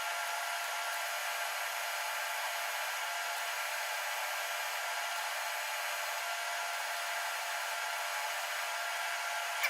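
TIG welding arc running steadily: an even hiss with a few faint steady tones as a worn steel engine part is built up with weld.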